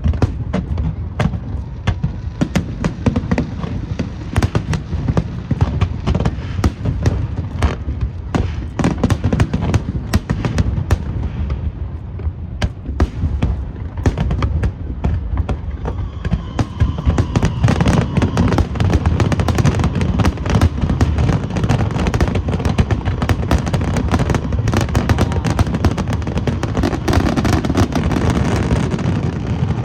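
Aerial fireworks display: a rapid, continuous string of bangs and crackling bursts over a low rumble, getting denser and louder in the second half like a finale barrage.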